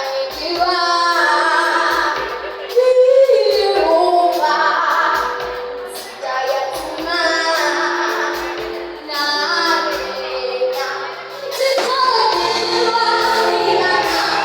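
Children and a woman singing a song over accompanying music with a steady low beat.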